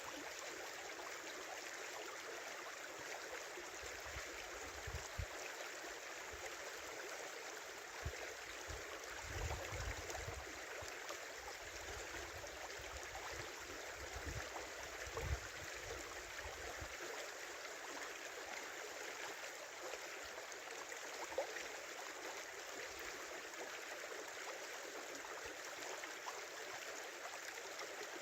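Small river flowing over its bed in winter, a steady rush of running water. Some low rumbles come and go from about 4 to 17 seconds in.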